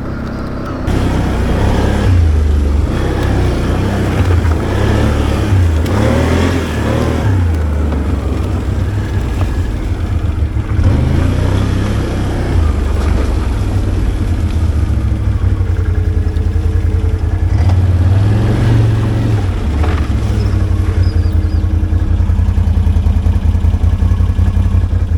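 ATV engine running loud, its revs rising and falling.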